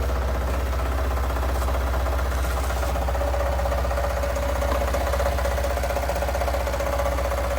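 Suzuki Access 125 scooter's single-cylinder four-stroke engine idling steadily after a crankshaft replacement.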